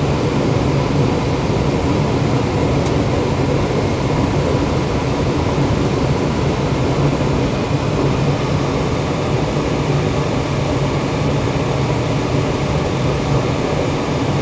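Ruud GPN 75,000 Btu 80% gas furnace running with its burners lit: a steady roar with a low hum, firing at a manifold gas pressure of about 3.5 inches of water column.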